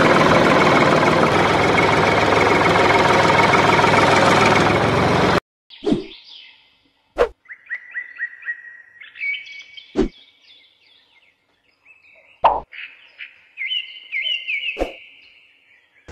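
A loud, steady tractor engine sound that cuts off suddenly after about five seconds. Then birds chirp, broken by five short sharp knocks.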